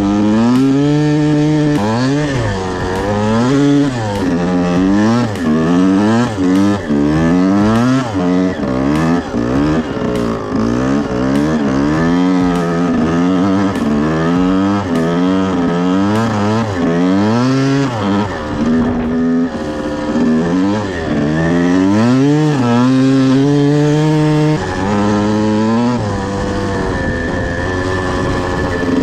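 1979 Yamaha IT175 single-cylinder two-stroke dirt bike engine revving up and dropping back again and again as it is ridden, its pitch climbing and falling every second or two, with a few short steadier stretches.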